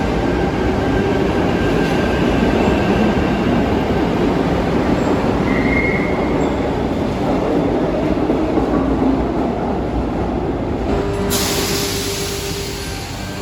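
Electric suburban train running through an underground station, a loud steady rumble of wheels and motors with a brief wheel squeal about six seconds in. A sudden hiss starts near the end.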